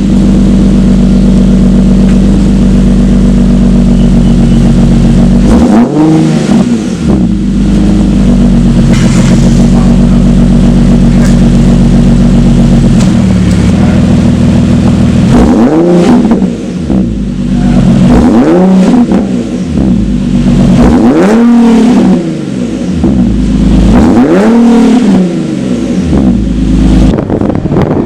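Infiniti G37 IPL's VQ V6 idling through an aftermarket Motordyne exhaust, blipped once about six seconds in and four more times in quick succession in the second half, each rev rising and dropping back to idle.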